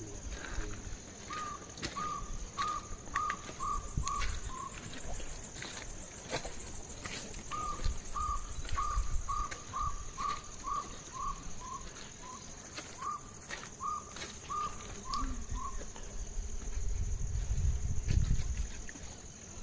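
A bird calling one short note over and over, about two a second, in two long runs with a pause of a few seconds between them. A steady high-pitched hum runs underneath.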